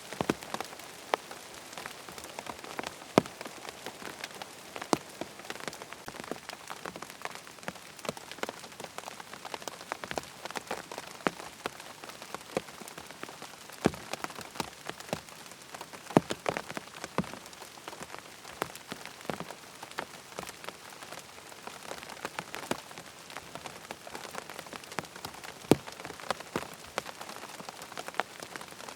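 Steady rain pattering on a tent: an even hiss with many sharp, separate drop hits scattered through it, some louder than the rest.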